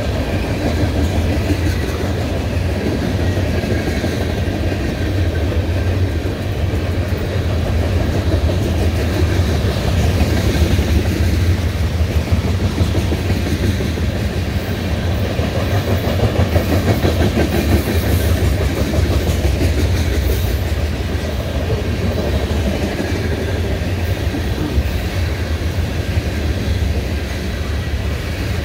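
Tank cars of a freight train rolling past, their steel wheels clattering over the rail joints above a steady low rumble.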